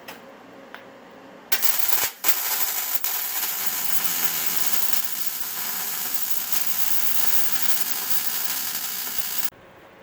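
Electric arc welding on sheet steel, butt welding a patch into a car's floor pan: a loud, steady hiss that starts about a second and a half in, breaks briefly, then runs on until it cuts off suddenly near the end.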